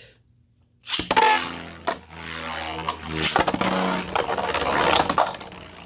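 3D-printed Beyblade tops launched about a second in, then whirring and clashing in a plastic stadium, with several sharp knocks as they collide.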